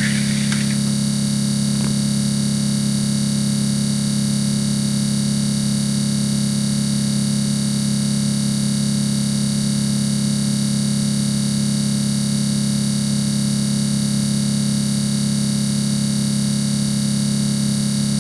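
Steady, unchanging electronic drone: a loud buzzing hum of fixed tones with hiss over it, with a brief scratchy crackle right at the start.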